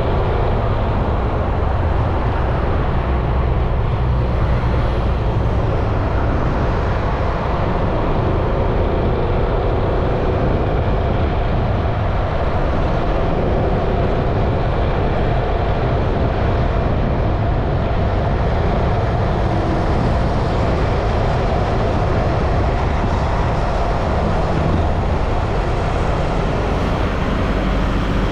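Yamaha XMAX 300 scooter riding at a steady speed: the single-cylinder engine's drone mixed with wind and road noise, constant throughout.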